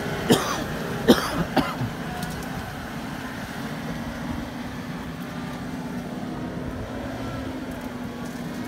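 Toyota Land Cruiser engine running steadily as the four-wheel drive creeps along a muddy track, with a few short, sharp, loud sounds in the first two seconds.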